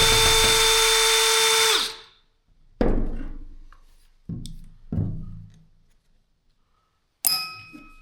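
A power drill motor runs at a steady pitch for about two seconds, then stops. A few separate knocks follow, and near the end a sharp metallic clink rings briefly.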